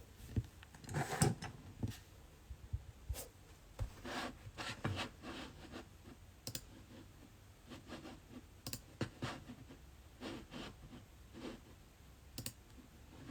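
Irregular light clicks, taps and brief rubbing sounds of small objects being handled, spread unevenly with short pauses between them.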